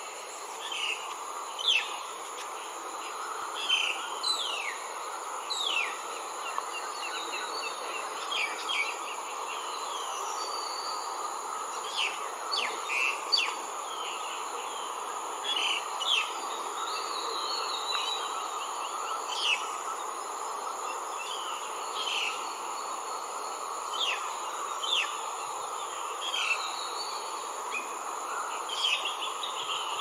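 Bird calls: short, falling chirps scattered every second or two over a steady, high-pitched insect drone.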